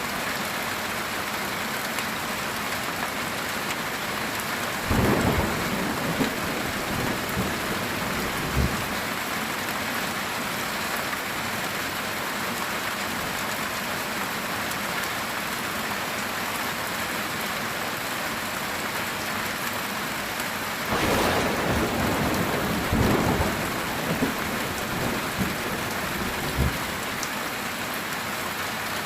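Heavy rain drumming steadily on a metal tin roof, with thunder rumbling low twice, about five seconds in and again about twenty-one seconds in.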